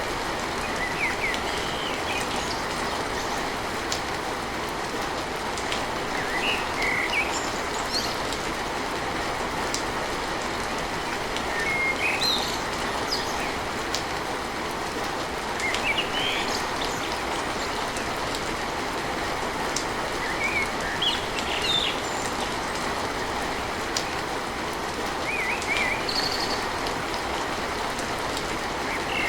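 Steady heavy rain drumming on a tin roof, with short bird chirps breaking through every few seconds.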